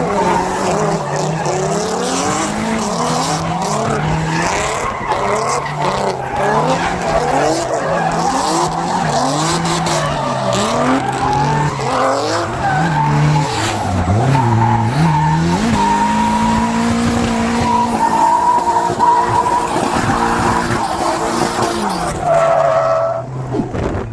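Nissan 240SX drift car's engine revving up and down over and over, with tyres skidding and squealing as the car drifts, heard from inside the car.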